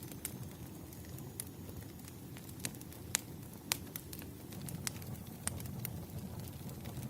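Campfire burning: a steady low rumble of flames with irregular sharp crackles and pops, the loudest a few seconds in.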